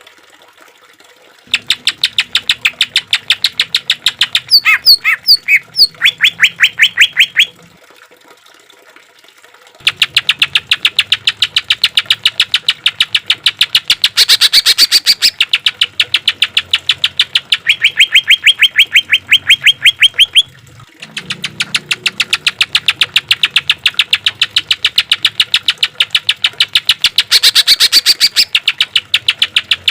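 Greater green leafbird (cucak ijo) singing a harsh, rapid-fire chatter of fast repeated notes, many per second, in three long phrases with short pauses between them.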